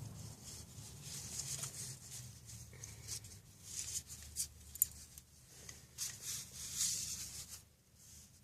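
Faint scrapes, rustles and small ticks of hands working the threaded axle and bearing cones of a bicycle wheel, over a low steady hum.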